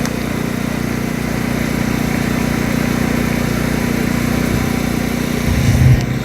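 Steady low mechanical hum of an idling engine, with a brief louder low rumble about five and a half seconds in.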